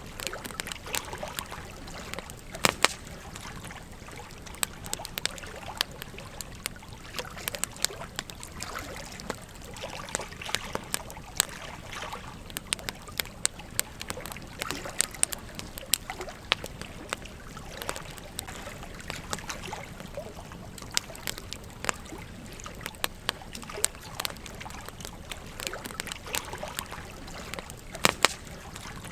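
Wood campfire crackling with irregular sharp pops over the steady trickle of a gentle stream.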